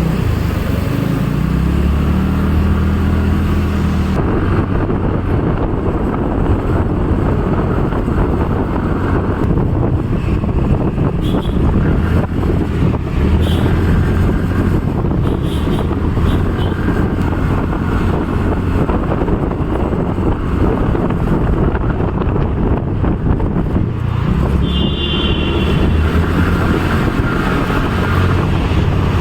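A vehicle's engine and road noise, heard on board while travelling, with a steady low rumble throughout. A few short high-pitched tones sound faintly over it.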